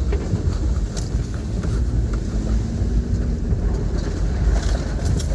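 Toyota Tacoma pickup driving over a rough off-road trail: a steady low rumble of engine and tyres with a few sharp knocks and rattles from the truck over the bumps.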